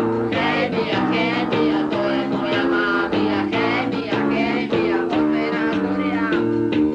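Punk rock band playing, with guitar chords to the fore, recorded lo-fi on a dictaphone in a living room.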